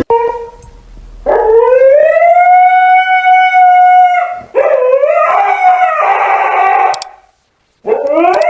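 Dog howling: a long howl that rises and then holds steady, a second howl that turns rough and ragged, and after a brief silence near the end a third howl begins.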